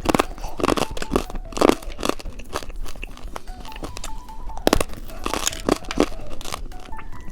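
Candy being crunched and handled, a string of sharp crunching and crinkling sounds, over quiet background music.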